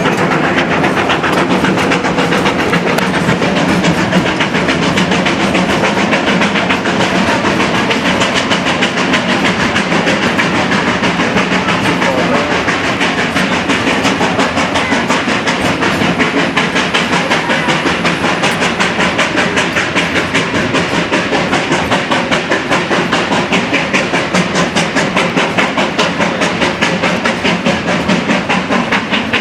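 Steam locomotive #40 working hard uphill, with a steady rhythmic beat of about three pulses a second and the train's wheels running on the rails.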